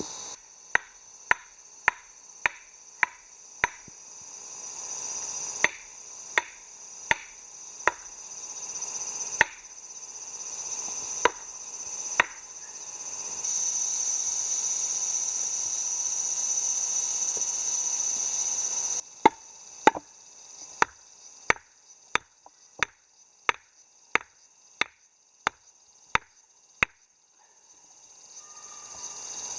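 Repeated chopping strikes, sharp and regular at about two a second, with a pause of several seconds midway before they resume. A steady high insect drone swells in the background.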